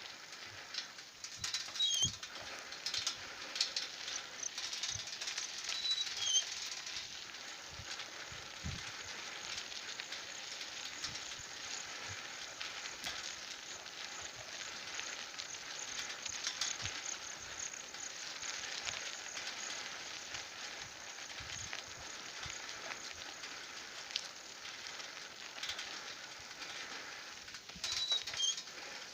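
Outdoor ambience with a steady high hiss, and short bird chirps a few times, around 2 s, 6 s and near the end.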